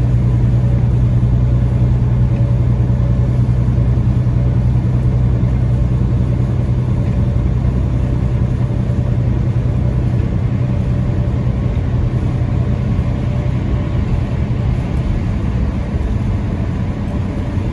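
Peterbilt 579 semi truck's diesel engine and tyre noise droning steadily inside the cab while cruising on the highway under a heavy load, easing off slightly near the end.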